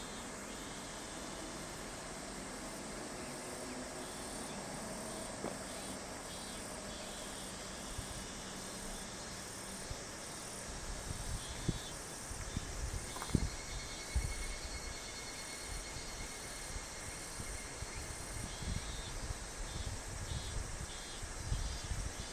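Evening insect chorus chirping in evenly repeating pulses. From about halfway, low irregular rumbling with a few sharp thumps joins it.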